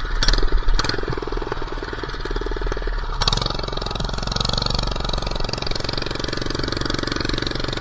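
Minibike's small engine running steadily while being ridden, with a few sharp clicks or knocks near the start and about three seconds in.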